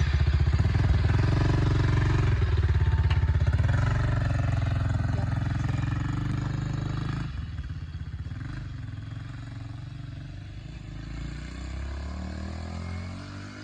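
Single-cylinder four-stroke engine of a 110cc pit bike running steadily just after its electric start. About seven seconds in it drops suddenly to a lower, quieter sound and keeps fading.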